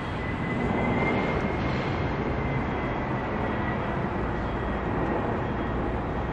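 Jet airliner engines, a steady broad noise with a thin high whine that rises slightly about a second in.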